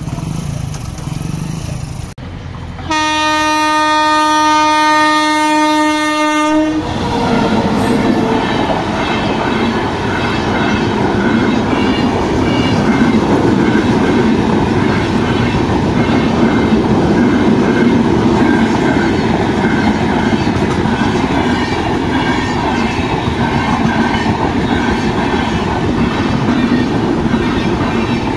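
An Indian Railways electric locomotive sounds one long horn blast of about four seconds, starting about three seconds in. Then the express train runs past at speed, its coaches' wheels running over the track in a steady, loud clatter.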